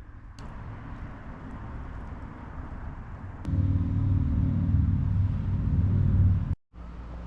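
Car engine running with a low, steady rumble that gets much louder about halfway through, then cuts off abruptly for an instant near the end and comes back quieter.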